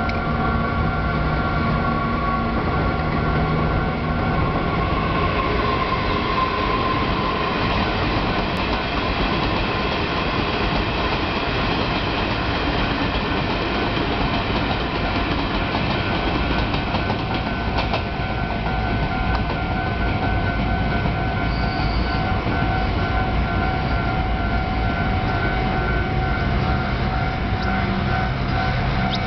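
A Taiwan Railway Chu-Kuang express train of locomotive-hauled coaches passing over a level crossing with a steady rumble of wheels on rails. Over it the crossing's warning bell rings steadily throughout, pulsing more plainly in the second half.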